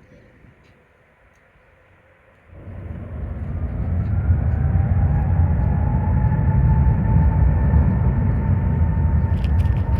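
Jet airliner's engines passing close by: the noise comes in abruptly about two and a half seconds in and builds to a loud, steady low noise with a faint whine that rises slightly in pitch.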